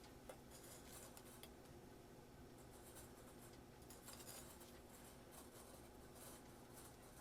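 Near silence: faint, irregular scratching and rubbing with one light click, over a low steady hum.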